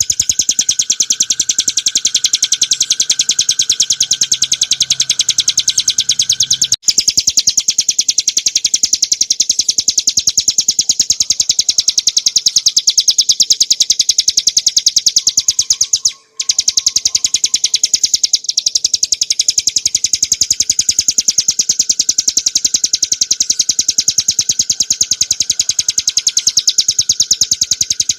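Ciblek gunung, a small prinia, singing a loud, very fast, continuous trill of sharp high notes, the rapid 'ngebren' song used for training other songbirds. The trill breaks off briefly twice.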